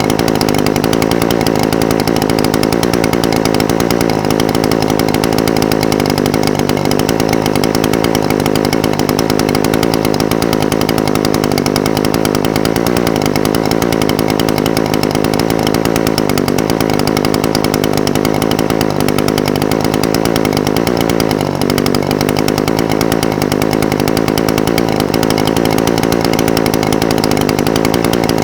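Echo SRM-420TES brush cutter's two-stroke engine idling steadily, its pitch wavering slightly, with a brief dip a little after two-thirds of the way through.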